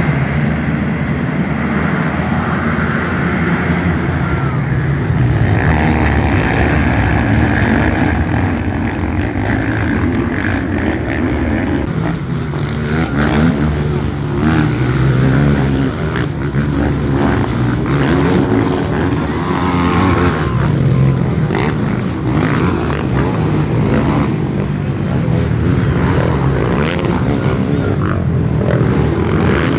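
Several racing sport quads' four-stroke engines running hard, rising and falling in pitch as they rev.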